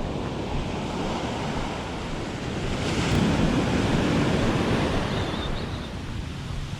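Ocean surf breaking on a beach, a wave surging to its loudest about halfway through, with wind on the microphone.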